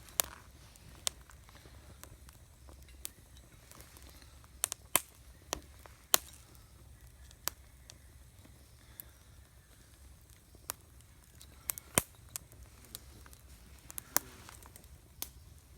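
Campfire burning, giving off irregular sharp pops and crackles, some singly and some in quick clusters, over a faint low background.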